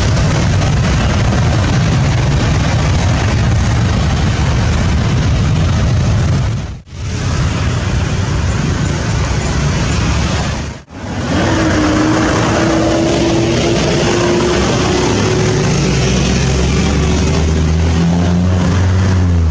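Loud, steady jet noise from the Boeing 777-300ER's GE90 engines, broken by two brief dips. After the second dip a steady whine slowly rises in pitch.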